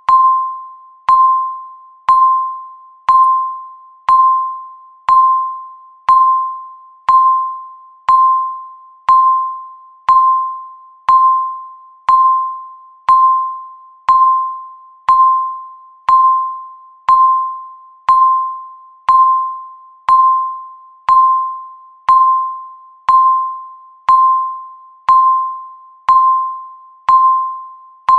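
Countdown timer's electronic beep, a single tone struck once a second that decays like a chime before the next one, marking each passing second.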